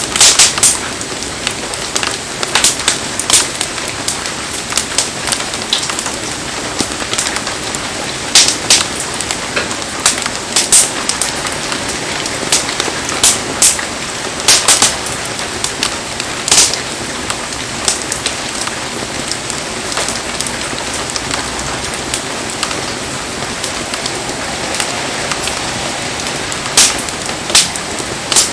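Heavy rain falling steadily with a constant hiss, over a wood campfire that gives sharp, irregular crackling pops, most of them in the first half.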